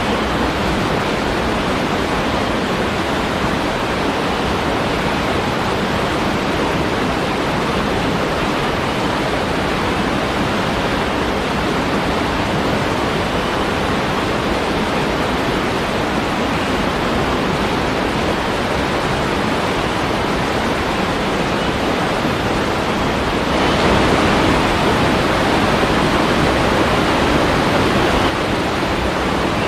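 Waterfall rushing steadily, an even spray of falling water that swells louder for about four seconds near the end.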